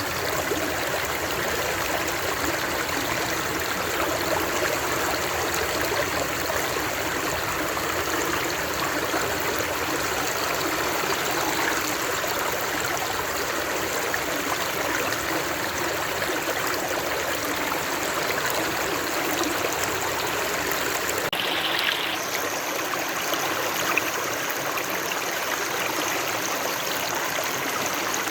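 Stream water flowing and babbling steadily. The tone of the water shifts abruptly about three-quarters of the way through.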